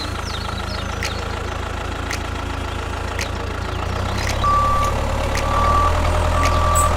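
Heavy truck or construction-vehicle engine idling with a low rumble and a faint tick about once a second. About four and a half seconds in, a reversing alarm starts beeping, three beeps in all.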